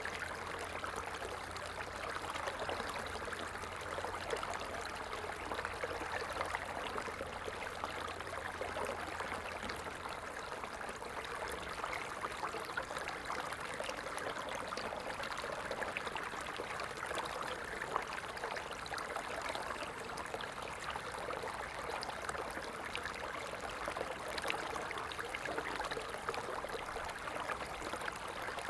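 Small stream flowing: a steady rush of water with fine splashing and trickling. A low rumble underneath stops about a third of the way in.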